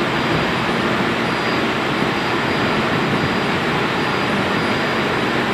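Boat engine running with a steady, even drone, heard up close.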